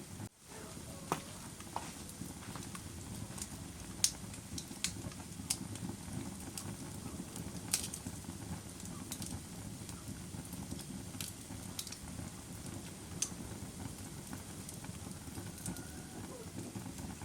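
Campfire crackling: a steady low rumble of burning with sharp pops at irregular intervals, the loudest about four and eight seconds in.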